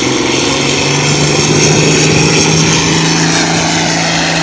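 Farm tractor engine running loud at steady, high revs under full load during a tractor-pull run, its pitch holding level.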